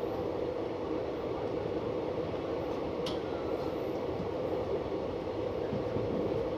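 Indian Railways passenger train running along the track, heard from on board: a steady, even noise, with one short click about three seconds in.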